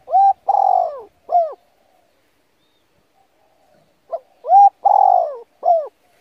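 A dove cooing: two phrases about four seconds apart. Each phrase is a short note followed by three arched notes, and the third note of the group is the longest and falls away at its end.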